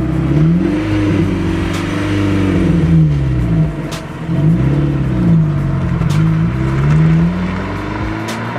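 Kia engine with its muffler cut off, revved repeatedly through the open exhaust, its pitch rising and falling with each blip of the throttle.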